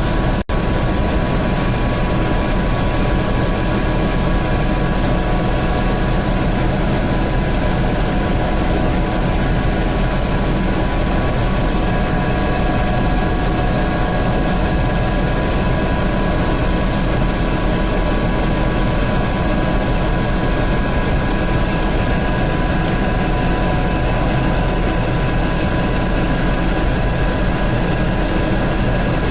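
Helicopter in flight heard from inside the cabin: a steady, loud rotor and turbine din with a constant whine over a deep rumble. It cuts out for an instant about half a second in.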